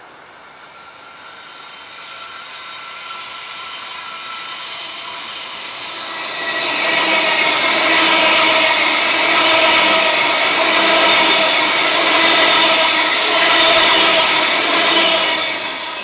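Electric multiple-unit passenger train approaching and passing close by at speed. The wheel-on-rail noise grows for about six seconds, then runs loud with a steady whine of several tones and swells in loudness as the cars go by, and drops away near the end as the train passes.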